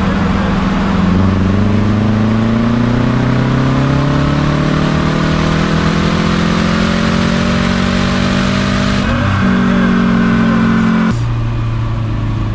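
Subaru FB25 flat-four engine running a pull on a chassis dyno, with the tyres spinning the rollers. The revs climb steadily for about eight seconds, then the note changes and holds, and it drops off about two seconds later.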